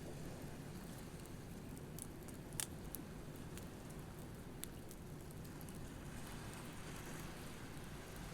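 Campfire crackling, with scattered sharp pops, the loudest about two and a half seconds in, over a steady low wash of waves.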